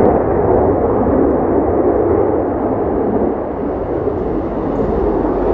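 Jet aircraft flying past, its engine roar a loud steady rumble that eases slightly towards the end.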